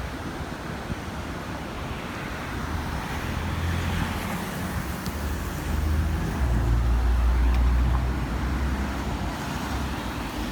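Street traffic going by, with a motor vehicle's engine hum growing louder as it passes close, loudest between about six and eight seconds in.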